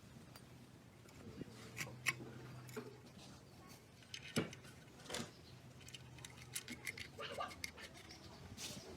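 Scattered light clicks and taps at irregular intervals, with a sharper knock about two seconds in and another past four seconds, over a faint steady hum.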